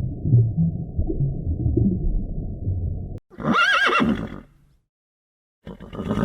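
A low, muffled animal sound cuts off abruptly about three seconds in, followed by a horse whinnying once with a wavering pitch. After a short pause, another loud call begins near the end.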